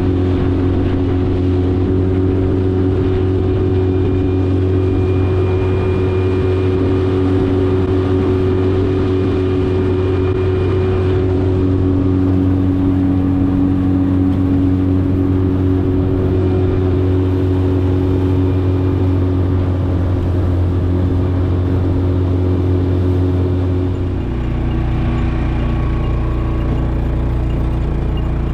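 Yamaha 8 horsepower outboard motor running steadily at cruising speed. Near the end its low hum shifts to a different, steady note.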